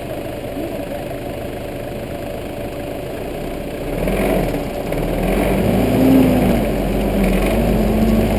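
A 4x4's engine idling steadily, then, about four seconds in, getting louder and revving under load as the vehicle drives off up the steep dirt climb, the revs rising and falling.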